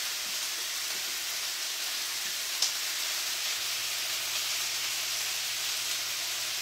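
Cubed raw chicken sizzling steadily in hot olive oil in frying pans. A single sharp click about two and a half seconds in.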